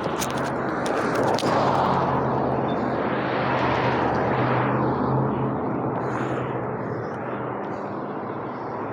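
A motor vehicle passing by: a rushing noise with a low engine hum that swells over the first few seconds and then fades away.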